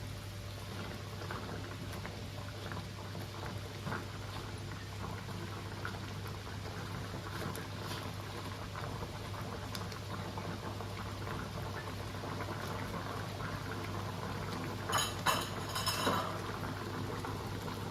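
Chicken curry with coconut milk bubbling in a pot on the stove, a steady simmer of small popping bubbles over a low hum. A few louder knocks come about fifteen seconds in.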